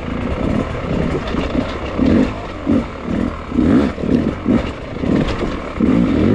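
Beta enduro dirt bike engine revved in short on-off bursts of throttle while the bike picks its way over rocks, the pitch rising with each blip.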